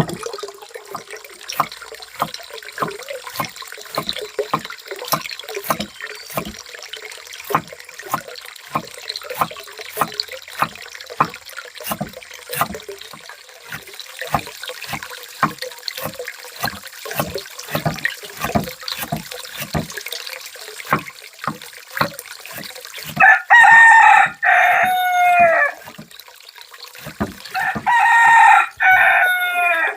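Water splashing and dripping, with frequent irregular small splashes, then a rooster crows twice near the end, each crow long and falling in pitch at its close.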